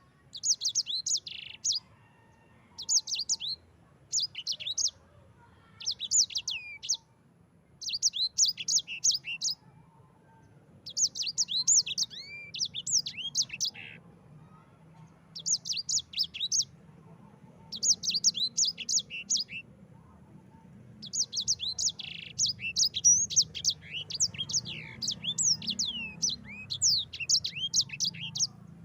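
Sanger finch singing: repeated phrases of rapid, high, sweeping chirps broken by short pauses, the last phrase running on longer as a continuous roll. A faint low hum lies underneath.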